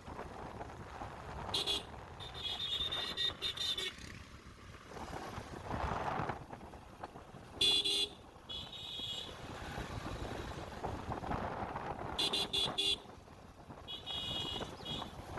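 A vehicle horn tooting in three pairs of bursts, a short toot then a longer, pulsing one, over a steady rumble of wind and engine noise from a moving motorbike.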